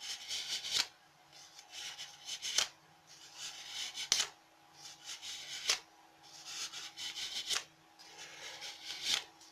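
Fingers rubbing and curling a sheet of origami paper, the wing of a paper flapping bird, in about six strokes roughly a second and a half apart, each ending in a sharp crinkle of the paper.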